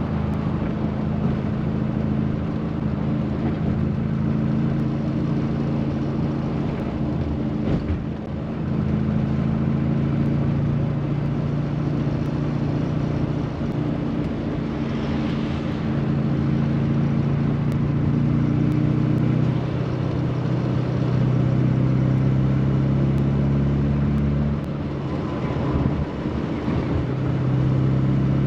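Rover Mini's A-series four-cylinder engine running while the car drives along, its note rising and falling with speed, with a few brief dips in level.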